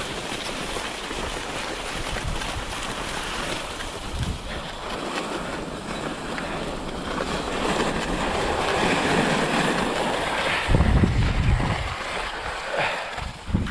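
Cross-country skis hissing over snow on a downhill run, getting louder as speed builds, with wind buffeting the camera microphone in low rumbles near the end.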